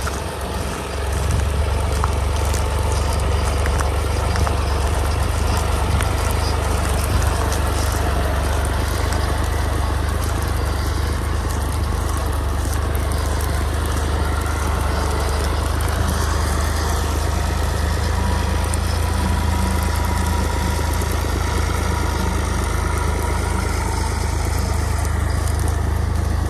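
Al-Ghazi tractor engine running steadily while driving a wheat thresher, a continuous deep machine drone that grows louder about a second in.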